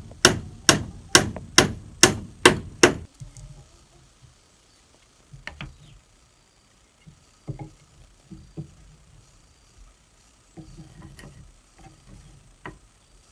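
A hand tool striking wood in steady blows, about two a second, seven strokes over the first three seconds. After that come scattered lighter knocks and low thuds of handling building material.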